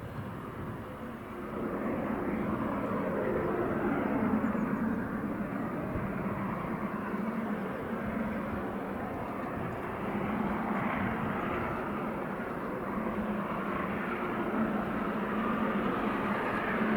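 A train's steady rumble, growing slightly louder near the end as it draws closer.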